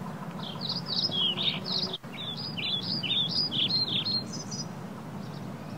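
Bird chirping: a quick run of short, high chirps, each dropping in pitch, lasting about four seconds over a faint low hum.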